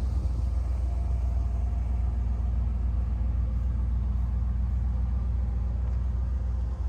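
A 1986 Pontiac Firebird Trans Am's V8 engine idling steadily, a deep, even exhaust note with no change in engine speed.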